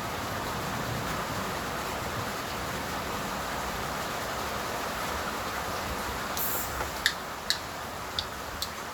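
Steady hiss of heavy rain falling during a summer storm, with a few sharp ticks near the end.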